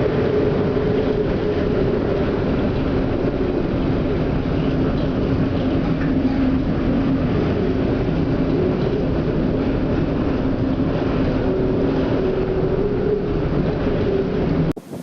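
Steady mechanical drone with two held humming tones, cutting off abruptly near the end.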